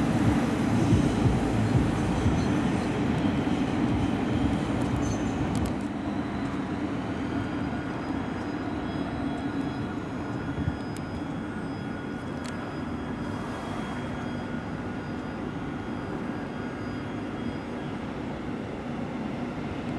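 Electric trains running along an elevated city railway viaduct: a steady rumble that gradually fades.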